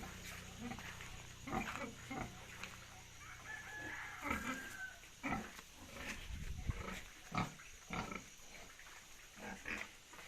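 Pigs grunting in short, irregular bursts, settling down after a feed. A rooster crows once about four seconds in.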